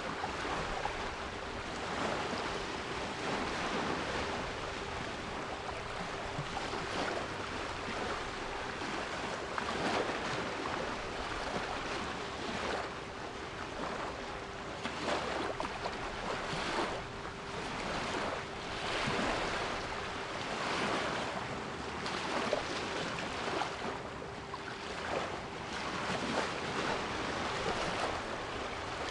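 Sea waves washing onto the shore, a continuous rush that swells and eases every few seconds, with a steady 396 Hz pure tone held underneath.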